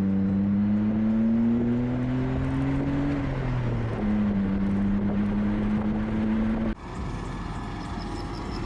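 A car engine accelerating hard: its pitch climbs for about three seconds, drops at a gear change, then holds steady. It cuts off suddenly near the end, leaving quieter background noise.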